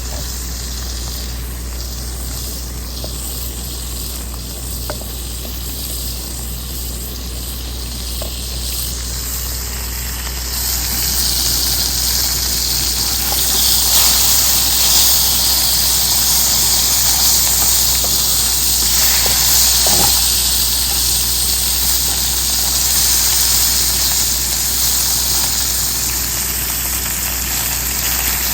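Bacon sizzling and spitting in a frying pan, the sizzle growing louder and brighter about ten seconds in as the pan heats up, over a steady low hum.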